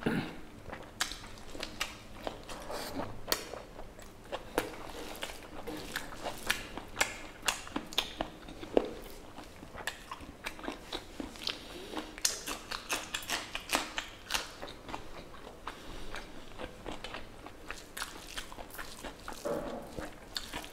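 Close-miked chewing of pork curry and rice, a steady stream of wet mouth smacks and clicks, several a second, as a mouthful is eaten.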